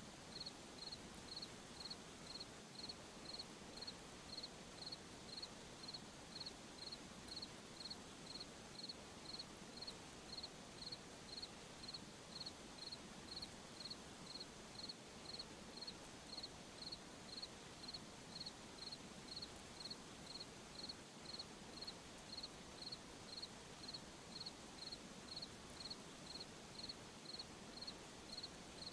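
Cricket chirping in a steady, even rhythm, about three high chirps every two seconds, over a faint steady hiss of night ambience.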